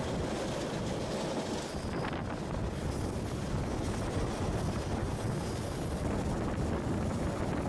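Passenger train running with a steady low rumble, heard from inside a carriage.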